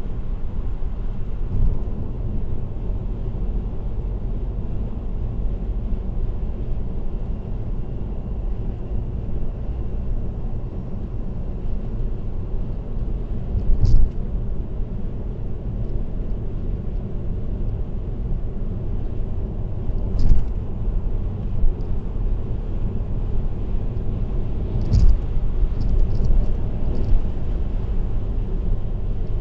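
Steady low road and tyre rumble of a car cruising on an expressway, heard from inside the car through a dashcam. A few short knocks stand out along the way, and several small ticks come near the end.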